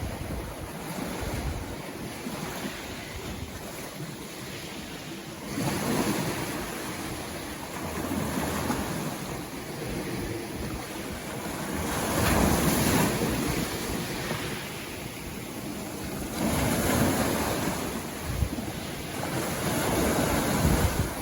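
Sea waves breaking and washing up a beach. Every few seconds a surge of rushing surf swells up and fades, the loudest about halfway through.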